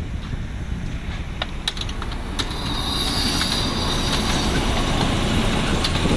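Diesel-hauled passenger train rolling slowly past close by, a steady low rumble that grows louder, with a high wheel squeal on the rails about halfway through and a few sharp clicks of wheels over the track.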